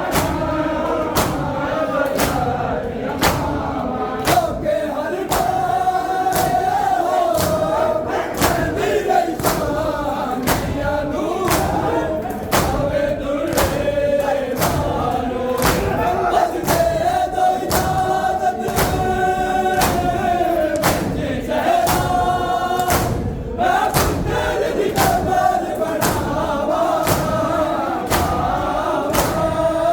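A group of male mourners chanting a noha, a Muharram lament, in unison, with sharp rhythmic slaps of matam (chest-beating) keeping time at about one and a half strokes a second.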